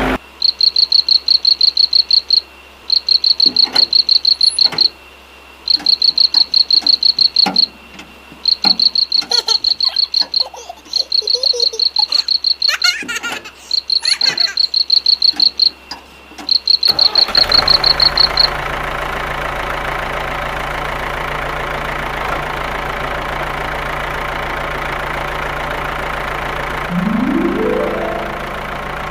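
High-pitched, rapid chirping in repeated bursts, each lasting a second or two, with scattered light clicks and knocks. About seventeen seconds in the chirping stops and a steady small-motor hum takes over, rising in pitch near the end.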